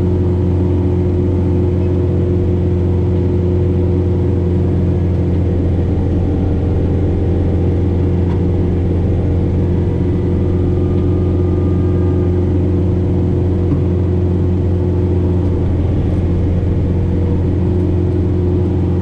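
John Deere 4066R tractor's diesel engine running steadily under load, with a Frontier SB1174 snowblower working through heavy wet snow.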